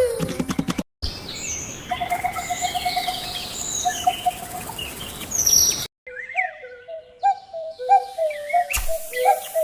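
Birds chirping and calling in short clips cut together. After an abrupt cut past the middle comes a run of quick warbling, whistled calls sliding up and down.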